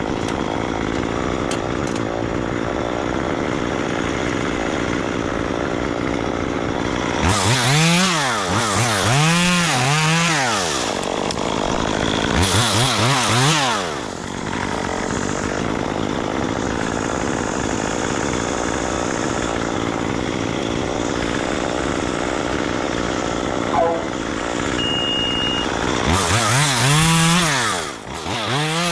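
Chainsaw running steadily, its engine revving up and back down in several bursts: a few times around seven to eleven seconds in, once around twelve to fourteen seconds, and again near the end.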